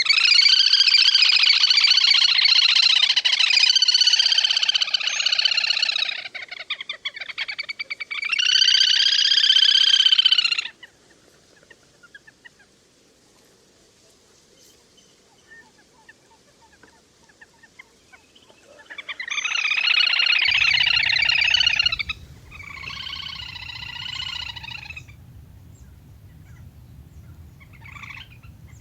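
Lesser whistling ducks (le le) calling, a recorded flock call: a long bout of loud, repeated calls lasting about six seconds, then shorter bouts with pauses between them and a brief call near the end.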